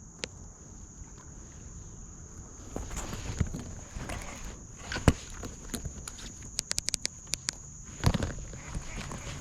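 A tree falling: a series of sharp cracks and snaps of breaking wood, the loudest about five seconds in, then a quick run of snaps and a crash just after eight seconds. Beneath it runs a steady high insect drone.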